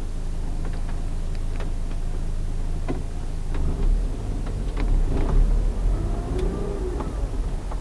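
Car driving: a steady low engine and road hum with scattered sharp clicks, and a heavier low rumble building about four seconds in.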